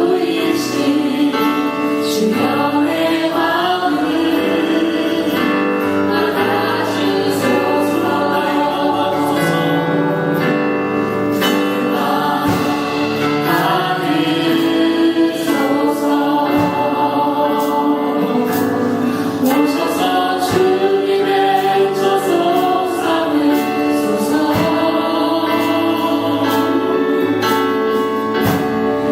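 A choir singing sacred, gospel-style music, several voices holding and moving between sustained notes over a steady low accompaniment.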